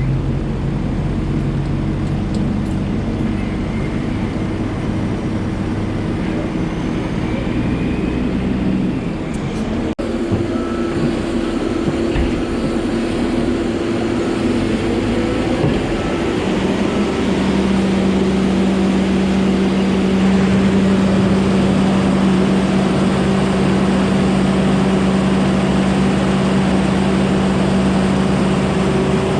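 Heavy logging machinery engine running steadily. There is an abrupt break about ten seconds in, and a stronger, higher steady engine tone comes in about sixteen seconds in.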